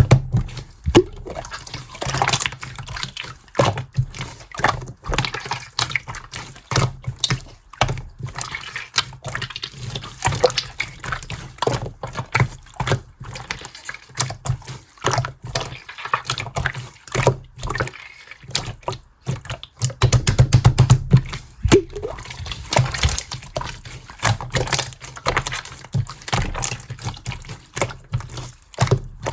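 Clear slime being squished and pressed by hand, making a steady run of wet clicks, pops and crackles, with a flurry of rapid clicking about twenty seconds in.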